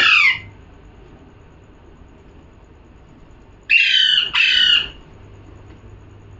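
Pet parrot squawking: one call that falls in pitch at the start, then two more calls in quick succession about four seconds in.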